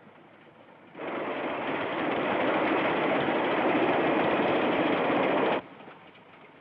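Train running at speed: a steady rushing noise that cuts in about a second in and stops abruptly about a second before the end, with only faint hiss either side.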